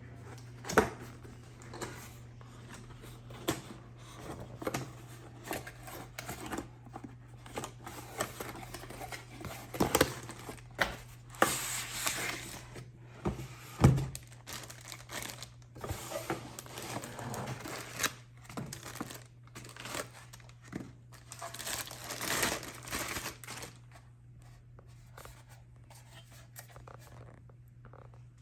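Packaging of a security camera system being opened and handled: tearing and crinkling of packing material with many scattered clicks and knocks. The sharpest knocks come about a second in and about halfway, and the handling dies down near the end. A steady low hum runs underneath.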